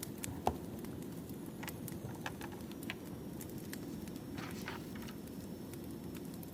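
Burning firewood crackling: a steady low rumble of the fire with scattered sharp pops and snaps, one louder pop about half a second in.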